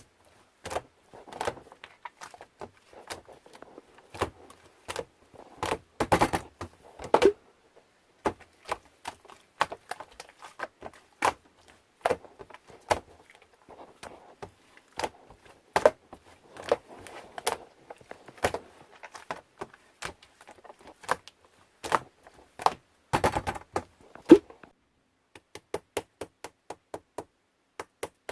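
A run of irregular taps, clicks and knocks on hard objects, with soft rustling between them. Near the end the taps settle into a steady rhythm of about three a second.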